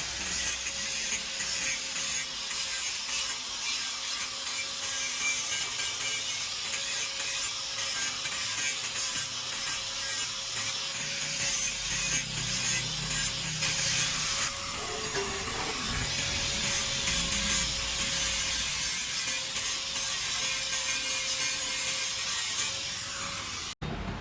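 A machine runs with a steady hum under a harsh, rasping cutting noise, typical of metal being cut or machined. It cuts off suddenly near the end.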